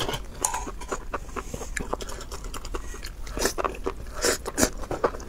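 Close-miked wet chewing and biting of enoki mushrooms in chili sauce: a run of mouth clicks, smacks and small crunches, with a louder cluster of bites about three and a half seconds in.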